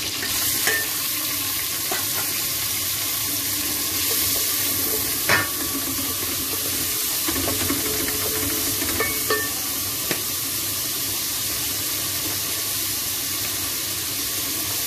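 Oil sizzling steadily in an aluminium pot as chopped garlic and shredded boiled chicken are stir-fried with a wooden spatula. A few knocks of the spatula against the pot come through, the loudest about five seconds in.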